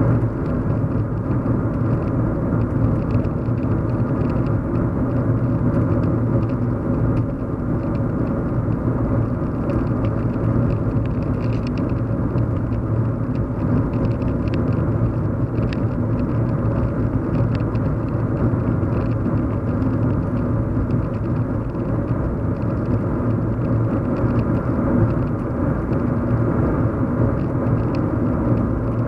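Steady low hum and road rumble inside a moving car's cabin.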